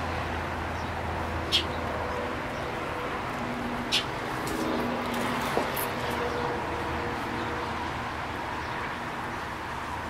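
A baby bird fallen from its nest cheeping: two short, high chirps about two and a half seconds apart, over a steady low background hum.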